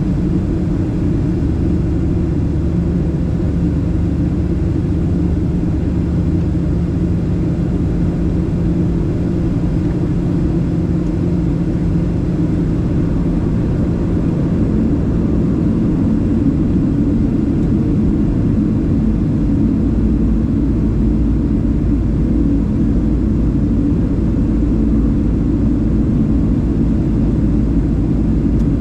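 Steady rumble of a Boeing 737-700 in flight, from its engines and the airflow over it. A low hum fades about halfway through, and the deepest rumble grows stronger later on.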